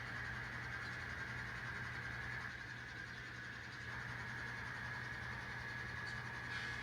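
Sound-equipped N scale diesel model locomotives running under load: a steady high whine over a steady low hum.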